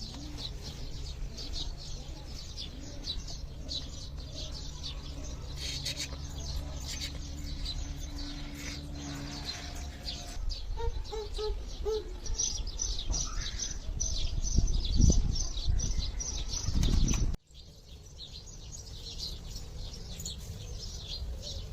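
Rapid, high-pitched bird chirping over a low rumble. The sound breaks off abruptly about 17 seconds in, then the chirping carries on more faintly.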